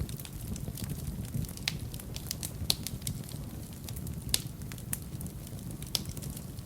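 Wood fire burning in a fireplace, crackling with frequent sharp pops over a low, steady rumble; a few louder pops stand out, about two seconds apart near the middle and end.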